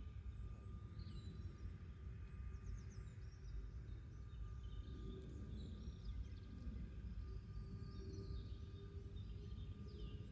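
Faint garden ambience: small birds chirping now and then over a low steady rumble and a faint steady hum.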